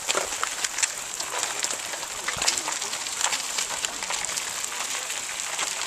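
Rain falling: a steady hiss with many small, irregular ticks and taps.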